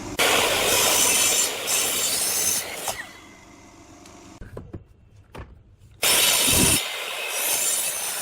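A power tool working wood, in two loud runs of about three seconds each with a quieter gap between them.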